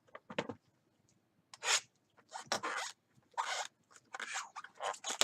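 Trading-card packaging being opened and handled: a run of short rustles and tearing scrapes, about one every second.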